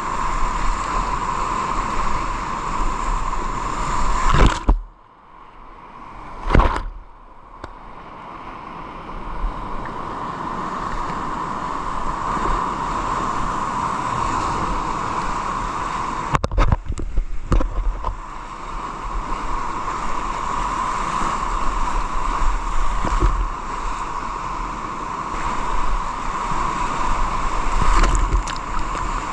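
Steady rush of fast-moving water around a kayak, with gurgling and sloshing. The sound drops away suddenly about four and a half seconds in and again around seventeen seconds, then comes back.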